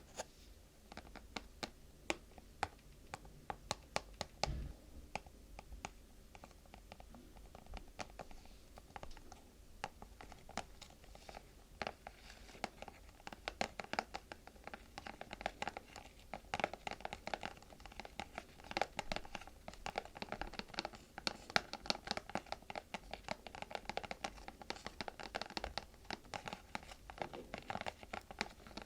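Close-miked ASMR scratching and tapping on objects: a steady stream of quick light clicks and scratches that grows busier and louder about twelve seconds in.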